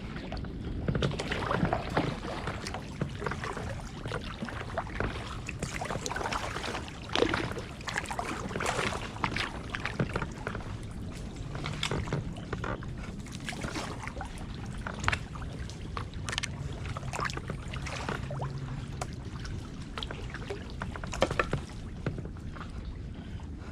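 Kayak paddling: paddle blades dipping and splashing in the water, with irregular clicks and knocks throughout.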